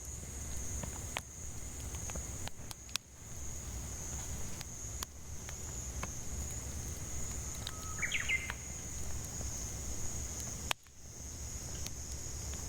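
Burning firewood crackling with scattered sharp pops, over a steady high-pitched cicada drone. A bird gives a short call of a few quick notes about eight seconds in.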